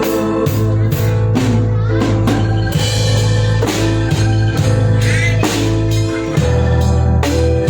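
A band playing live, with a steady drum-kit beat about twice a second under a bass line and sustained keyboard or guitar notes.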